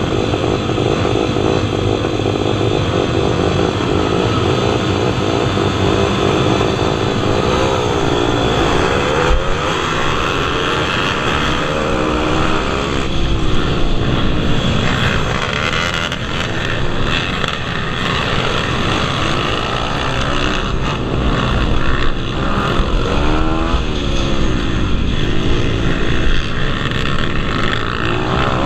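Several pit bike engines racing, revving up and down in overlapping rising and falling whines, with no let-up.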